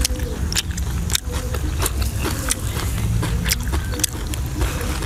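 Close-miked eating sounds of someone chewing grilled fish: repeated sharp mouth clicks and lip smacks, over a steady low rumble.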